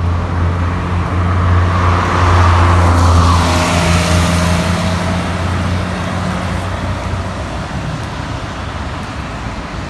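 A motor vehicle passing close on a wet road: a low engine hum with tyres hissing on the wet surface, swelling to its loudest about four seconds in and then fading.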